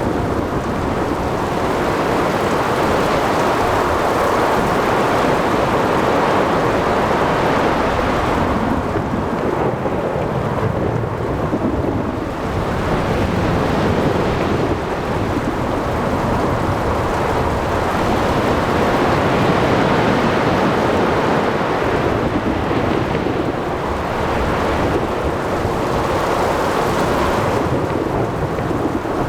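Thunderstorm ambience: continuous rumbling thunder over steady heavy rain, swelling and easing slowly without any sharp cracks.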